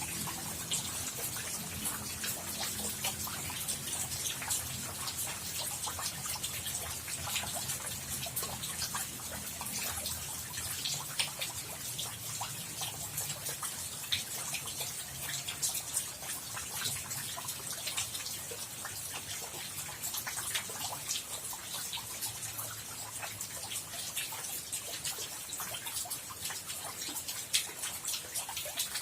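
Steady rain falling, a dense patter of drops and drips. A low rumble underneath fades out about a third of the way through.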